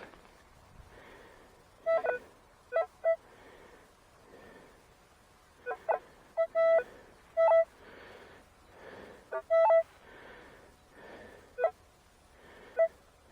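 Metal detector giving short, pitched beeps in irregular clusters as the coil passes over a target, the signal of a deep buried piece of metal.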